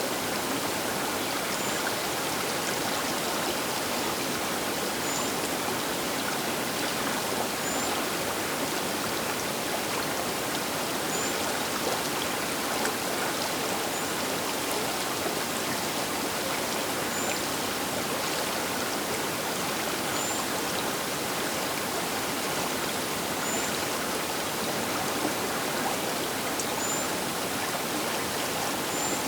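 Baker River water flowing past the bank, a steady, even rush of water noise.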